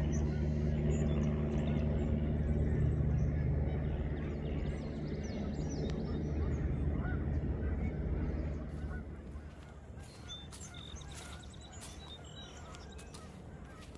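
Geese honking off and on. A low, steady engine hum sits underneath for the first nine seconds or so, then fades away.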